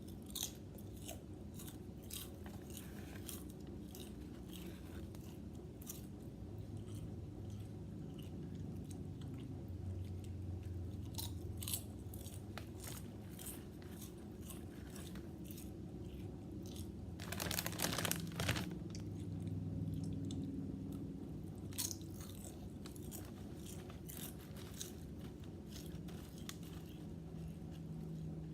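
Potato chips being bitten and chewed close to the microphone: crisp crackles throughout, with a louder burst of crunching about 17 seconds in. A low background hum runs underneath.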